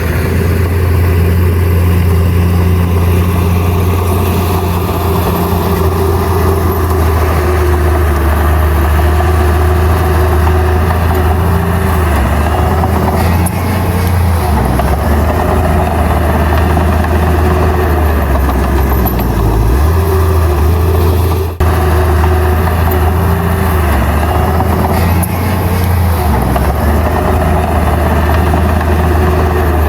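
Heavy diesel engine of earth-moving machinery running steadily with a deep drone, its pitch shifting a few times as the load changes. The sound cuts out for an instant about two-thirds of the way through.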